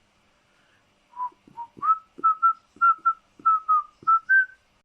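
A run of about a dozen short whistled notes, each with a soft click, starting about a second in and stepping slightly up in pitch toward the end.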